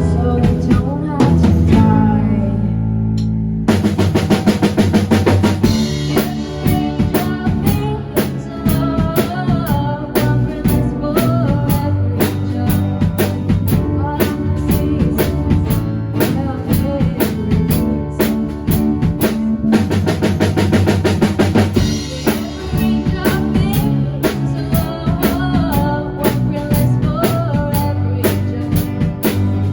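A band playing a pop song on drum kit, bass and a melody line. The drums drop out briefly near the start and come back in about four seconds in, then keep a steady beat.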